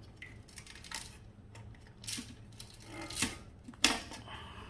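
Sharp plastic clicks and knocks, about four spread over a few seconds, as an old toilet flapper is pried and snapped off its mounting pegs at the flush valve in a drained tank; the one near the end is the sharpest.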